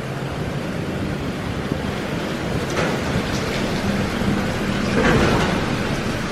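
Spray from a Mark VII AquaJet XT touchless car wash drumming on the car like heavy rain, over a steady low hum from the wash machinery. The spray swells about three seconds in and again about five seconds in as the jets pass over.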